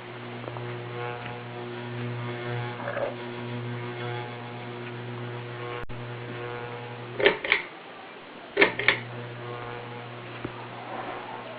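Ceiling fan motor humming steadily with a wavering overtone. Two pairs of sharp clicks come about a second and a half apart in the second half, and the hum dips between them.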